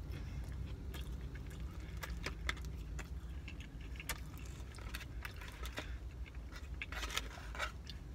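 A person chewing a caramel pecan cinnamon roll, with scattered small clicks and scrapes of a plastic fork in its takeout container and a cluster of them near the end, over a low steady hum.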